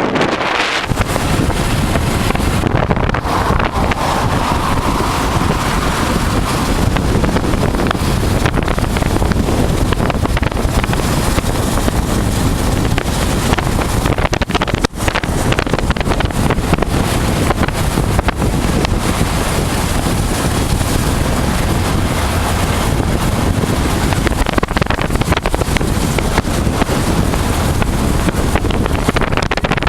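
Wind rushing over the microphone of a moving motorcycle at road speed, with the low drone of the 1988 Honda Transalp's V-twin engine underneath. The noise is loud and steady, with one brief dip about halfway through.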